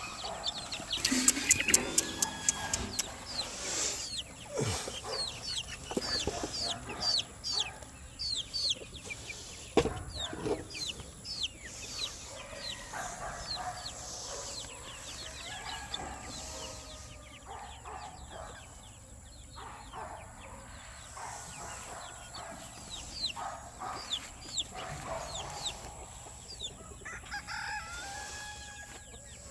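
A flock of chickens clucking, with roosters crowing now and then and many short, high peeps.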